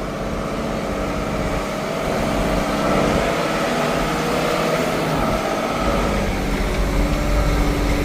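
Diesel engine of a log-loaded logging vehicle labouring uphill under heavy load, getting louder as it comes closer, with its note shifting midway.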